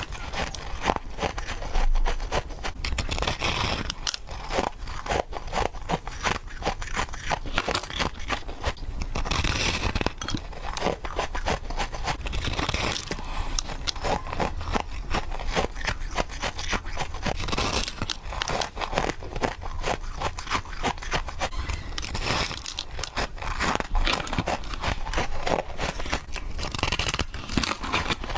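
A person biting and chewing crisp freezer frost, close up: quick crunching bites one after another, with crackling and scraping as the frost breaks between the teeth.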